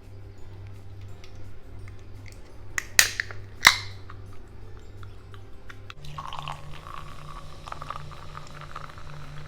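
Close-miked eating sounds of a person chewing, with small wet mouth clicks and two sharp loud clicks or crunches about three seconds in.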